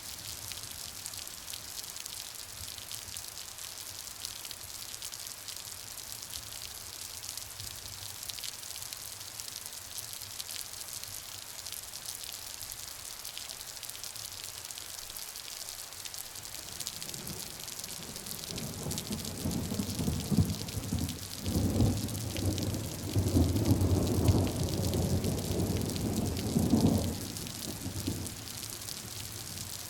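Steady rain falling, a dense even hiss of drops. About seventeen seconds in, a roll of thunder builds and rumbles loudly for several seconds, then stops abruptly a few seconds before the end.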